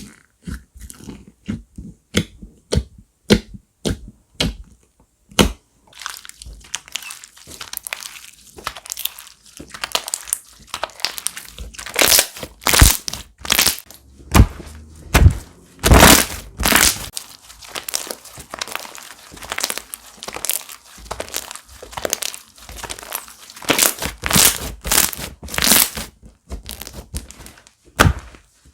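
Hands pressing and squeezing crunchy slime with foam beads mixed in, giving sharp crackling pops. Separate pops come about two or three a second at first, then from about six seconds in a denser crackle with louder crunches.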